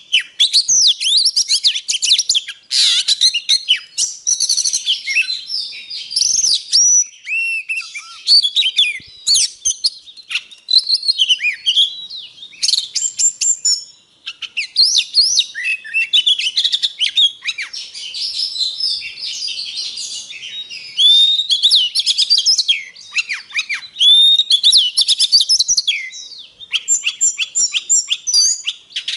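Oriental magpie-robin singing continuously: a varied, high-pitched song of clear whistles, sweeping notes and rapid chattering phrases, used as a lure song to provoke other birds into singing.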